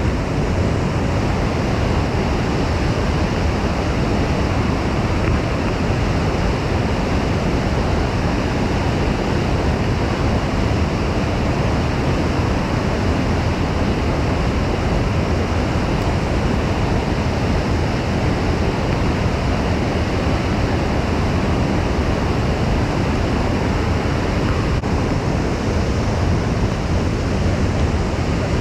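Steady, loud roar of rushing water in flooding rain, even and unbroken throughout.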